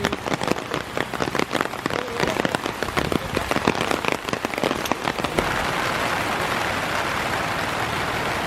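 Heavy monsoon rain: for about five seconds many separate drops strike a surface close by, dense and irregular, then the sound settles into a steady hiss of rain.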